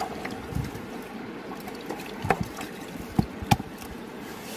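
Steady rush of river water with a few short, sharp clicks and knocks in the second half, the loudest about three and a half seconds in.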